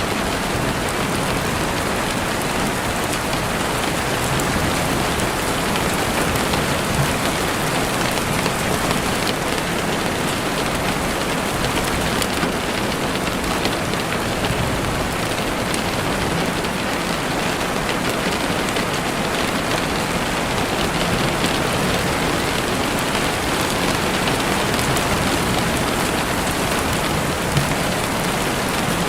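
Heavy rain falling steadily on a window, a dense even hiss of drops with a few sharper drop hits now and then.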